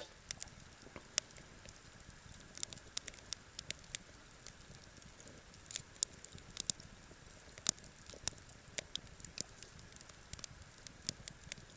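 Small wood campfire crackling: sparse, irregular pops and snaps of burning wood over a faint hiss.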